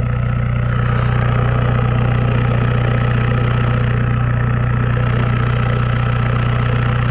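Volkswagen Mk III TDI's turbodiesel engine idling steadily through a cut-off exhaust with the catalytic converter removed, with a faint steady whine from the turbo.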